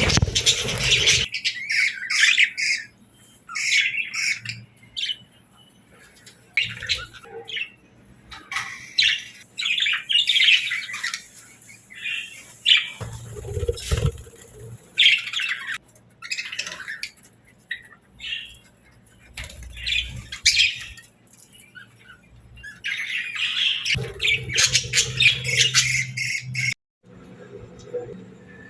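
Budgerigars chirping and chattering in short, irregular bursts of high calls, with squawks mixed in; the calls are densest just at the start and again about four-fifths of the way through, with quieter gaps between.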